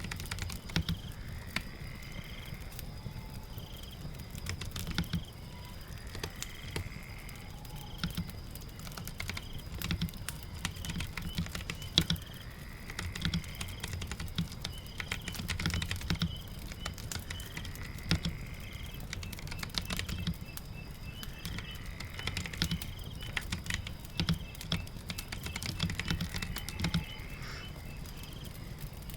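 Typing on a computer keyboard, irregular key clicks, over a steady low bed of rain and crackling fire. Faint bird chirps recur every few seconds.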